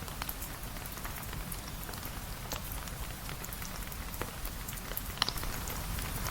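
Steady rain, with a continuous hiss, a low rumble underneath and scattered sharp ticks of individual drops.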